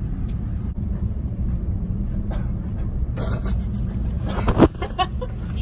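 Low steady rumble of a KTX high-speed train pulling out of the station, heard from inside the carriage. In the second half there is rustling and a few knocks, the loudest about four and a half seconds in.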